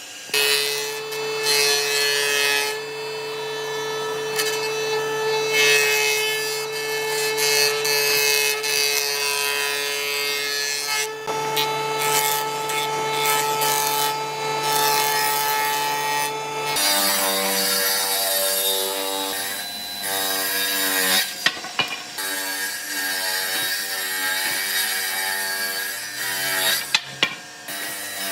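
An electric woodworking power tool running while it works wood, with a steady motor tone over scraping noise. About two-thirds of the way through the tone shifts and turns unsteady, and a few sharp clicks follow.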